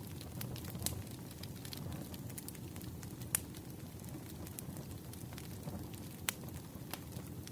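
Wood fire crackling: a steady low rumble with scattered small crackles and a few sharp pops, the loudest about a second in, midway and near the end.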